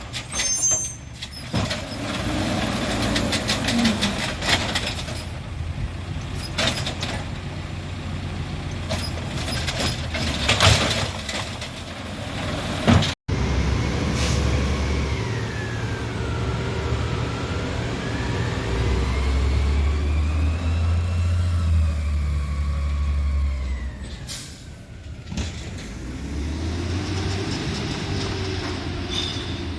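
Garbage truck working: its engine runs under repeated sharp knocks and clanks. After a break about halfway through, the engine pitch rises and falls as it revs.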